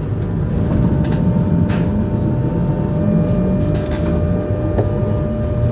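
SNCF Z 20500-series (Z2N) double-deck electric multiple unit running, with a steady low rumble, a thin steady whine above it and a few light clicks.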